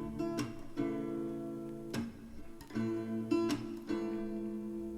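Background music: acoustic guitar strumming chords, about one strum a second, in an instrumental passage without vocals.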